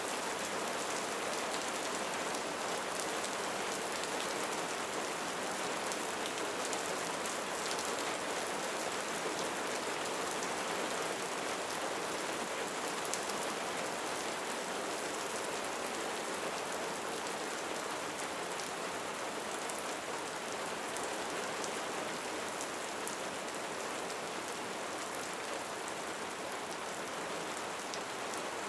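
Steady heavy rain falling on a roof, a dense even patter with fine individual drop ticks over it.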